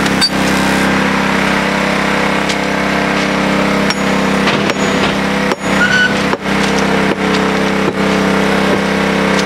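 A small engine running steadily at constant speed, with a few short knocks and clinks over it.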